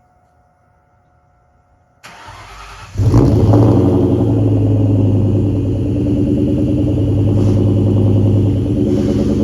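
2003 Ford SVT Mustang Cobra's supercharged 4.6-litre V8 with Borla exhaust cranking briefly about two seconds in, catching about a second later and settling into a steady, loud idle.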